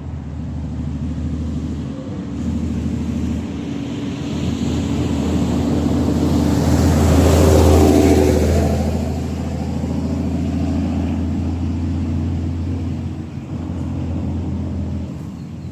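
Motor vehicle engine running steadily, with the rush of a passing vehicle swelling to a peak about halfway through and fading.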